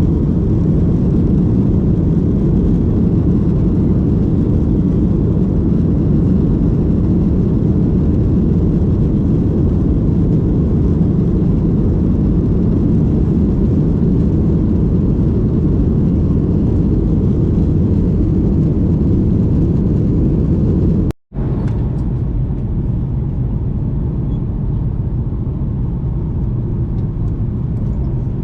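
Steady low rumble of airliner cabin noise: jet engines and airflow heard from inside the cabin. It cuts off abruptly for a moment about three-quarters of the way through, then carries on slightly quieter.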